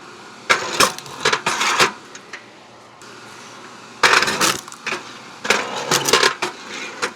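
Oak rounds cracking apart on a 7-ton electric log splitter, with the split pieces knocking and clattering down. The sharp cracks and knocks come in two clusters: one from about half a second to two seconds in, and a longer one from about four seconds in to near the end.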